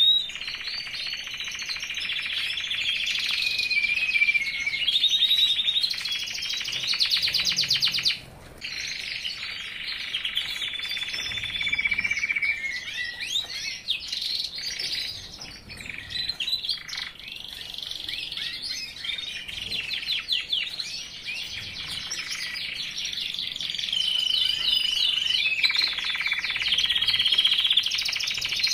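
Male 'red robe' (红袍) songbird in full breeding-season song: long runs of rapid warbling phrases and fast trills, nearly continuous, with one brief pause about eight seconds in.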